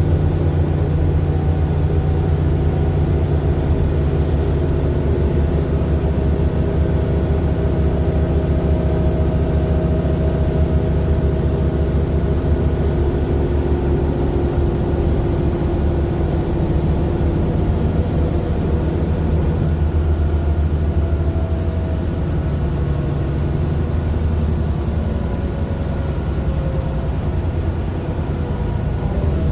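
Mercedes-Benz Citaro LE city bus's Daimler OM 457 hLA six-cylinder diesel running steadily, a low drone with tones that drift a little in pitch.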